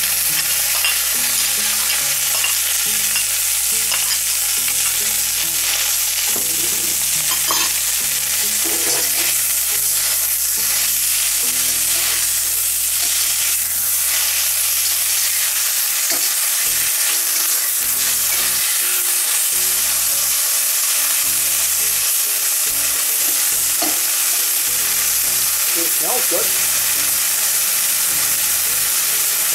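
Stir-fry vegetables sizzling steadily in hot oil in a 12-inch carbon steel wok, with a metal wok spatula stirring and scraping them around the pan.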